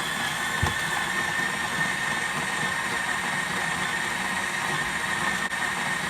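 Capresso Infinity conical burr coffee grinder running steadily, grinding beans on its extra-fine Turkish setting, with a constant motor hum and a high whine.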